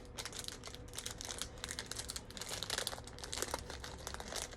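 Crinkling of a plastic bag and rattling of small Lego pieces being rummaged through in a search for a piece, as a dense run of small clicks and crackles, busiest a little past the middle.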